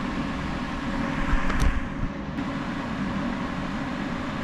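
Draper IR20 diesel/kerosene space heater's fan running steadily, before the ignition transformer and flame come on. A brief knock about a second and a half in.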